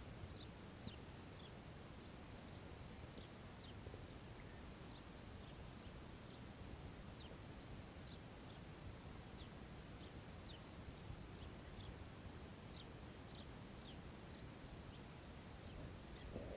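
Faint outdoor ambience with a small bird chirping over and over: short, high, falling notes, about one or two a second, over a low steady background rumble.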